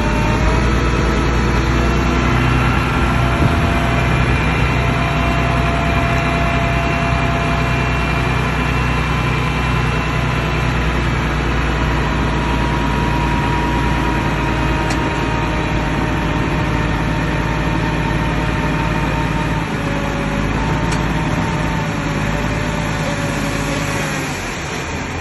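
Bulldozer's heavy diesel engine running steadily while pushing soil, a deep rumble with high whining tones that drift slightly in pitch. It eases off a little near the end.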